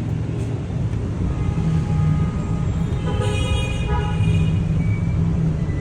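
Car engine running steadily, with a horn-like tone sounding for about a second about three seconds in.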